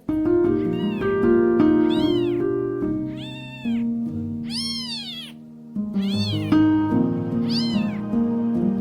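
A kitten meowing about six times, each high call rising and then falling in pitch, over background music with held notes.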